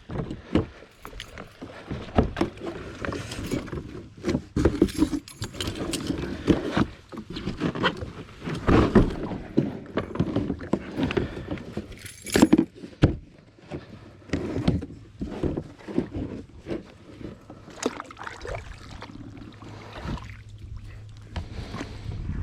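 Irregular knocks, clunks and rattles of gear being handled in a fishing kayak, bumping against the hull.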